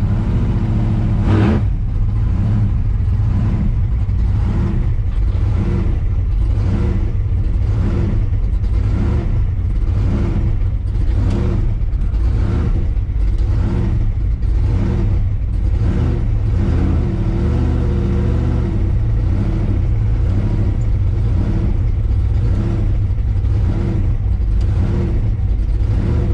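Car being driven: steady engine and road rumble, the engine note wavering up and down a little as the throttle changes.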